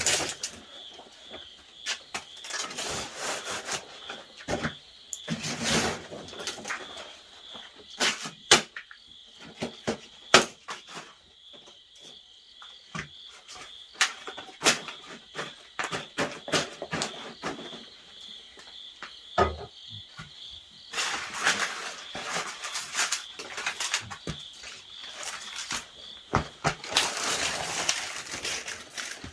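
Insects trilling, a steady high pulsing note, under repeated scraping and rubbing sounds with scattered sharp knocks.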